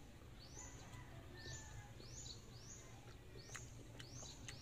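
Faint, steady repeated chirping from a small bird outdoors: quick high notes, each falling in pitch, about two a second. A few faint clicks come in the second half.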